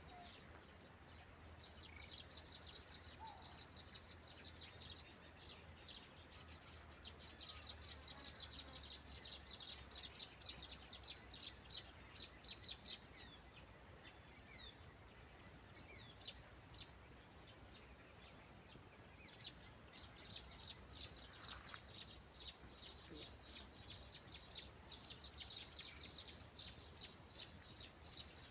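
Birds chirping in dense runs of quick, short high notes over a continuous high-pitched insect trill, with a few scattered single calls.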